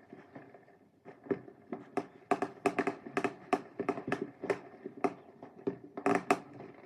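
Fireworks going off in quick succession: a rapid, irregular series of sharp bangs and cracks, thickest in the middle and with another cluster near the end.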